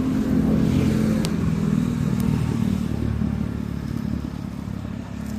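Motorcycle engine running close by, loudest at first and slowly growing fainter.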